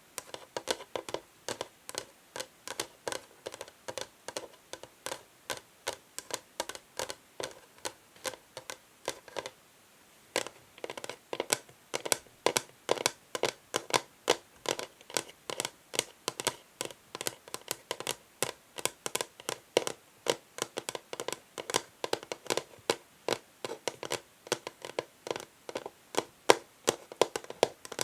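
Fingernails tapping and scratching on an old wooden chess board in quick, sharp strokes, about four a second, with a brief pause about ten seconds in.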